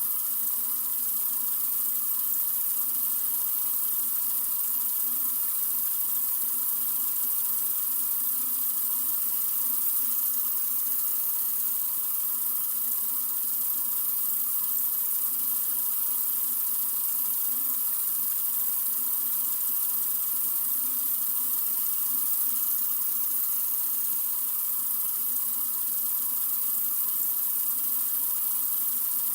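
Sink faucet running in a steady, unbroken stream of water: an even, bright hiss that does not change.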